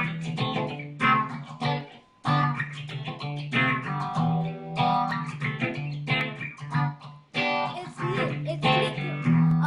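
Instrumental intro played on a plucked string instrument: chords in short phrases, with brief breaks about two and seven seconds in.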